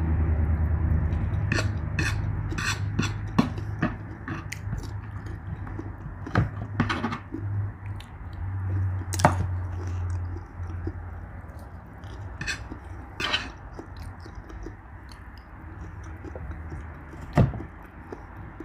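Someone eating: a fork or spoon clicking against a plate now and then, with chewing in between.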